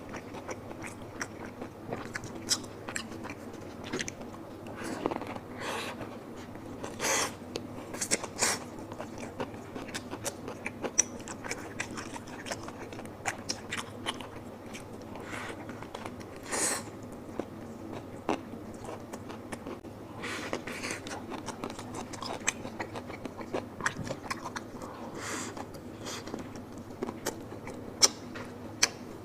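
A person eating close to the microphone: chewing and biting, with wet mouth smacks and frequent short crisp clicks at irregular intervals.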